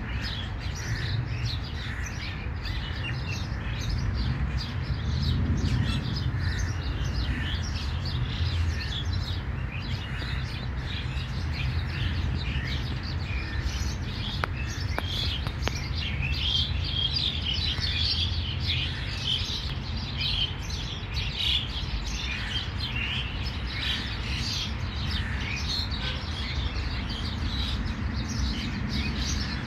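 Many small wild birds chirping and twittering at once, a continuous chorus of short high calls, over a steady low rumble.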